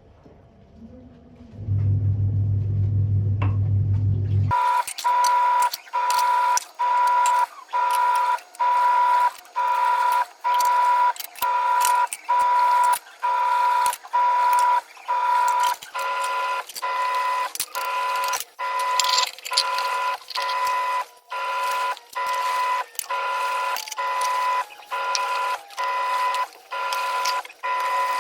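A low hum for a few seconds, then a steady high-pitched electronic tone that repeats with short gaps about once a second.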